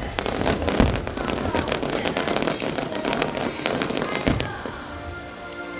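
Fireworks going off: dense crackling and popping with sharp bangs, loudest about a second in and again about four seconds in. The crackle thins near the end as music with steady held notes comes in.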